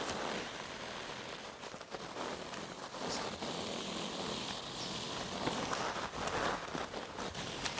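Displaying male ruffs at a lek making sounds with their feathers and no calls: rustling and swishing from ruffling their neck feathers and beating their wings, with scattered sharp ticks.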